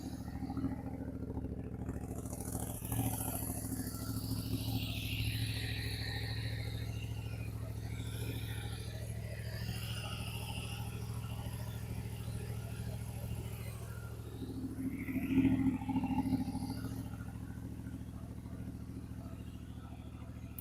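CFMOTO 450MT's parallel-twin engine running steadily through an aftermarket titanium exhaust. The sound swells briefly about three seconds in and more strongly about fifteen seconds in.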